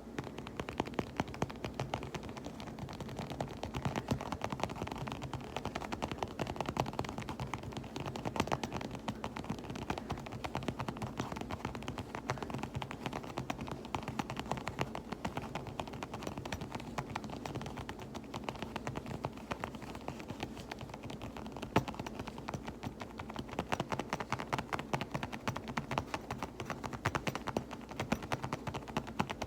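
Rapid, light finger tapping on a fabric pouch: a dense, continuous run of small taps.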